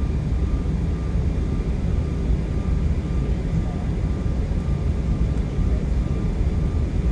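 Steady low rumble of an Embraer E175 regional jet's engines and airflow, heard from inside the passenger cabin.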